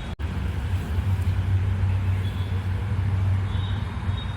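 Road vehicle running: a steady low rumble with road noise. It cuts out for a split second just after the start, then carries on.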